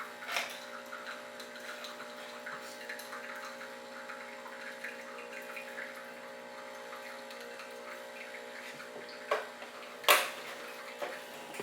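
Almond milk being poured into a milk frother jug, with a steady hum beneath it. A sharp knock sounds about ten seconds in.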